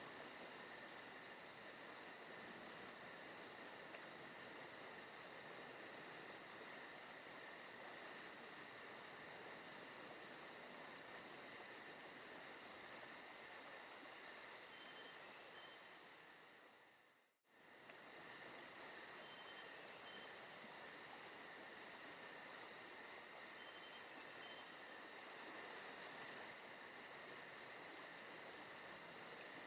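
Faint forest ambience of insects chirring steadily, a dense high-pitched trill, with a brief fade to silence a little past halfway before it resumes.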